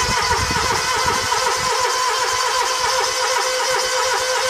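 Scag Tiger Cat II mower's electric starter cranking the engine in one long steady pull with the choke on. The engine is not catching, as fuel has not yet reached it after winter storage.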